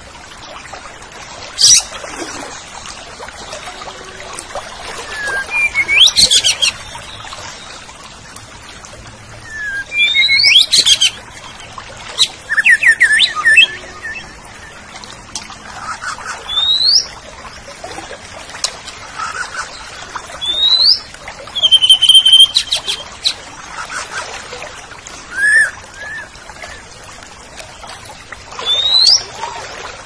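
Cucak ijo (green leafbird) singing in short loud phrases of rising whistles and chirps, one every couple of seconds, with one held high whistle a little past the middle.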